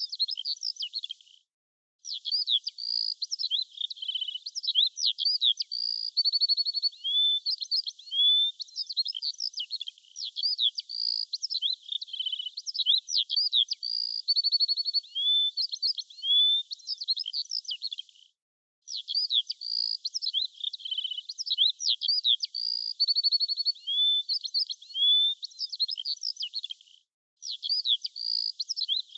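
Small songbirds chirping, whistling and trilling in a dense, high-pitched chorus, cutting out abruptly to silence for a moment three times.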